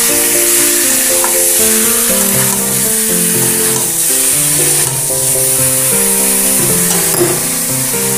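Marinated chicken pieces sizzling as they fry in a steel kadai while a spatula stirs them, with background music playing over it.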